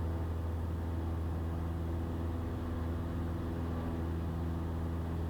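Cessna 172's piston engine and propeller at full power in the climb after takeoff, a steady even drone heard inside the cabin.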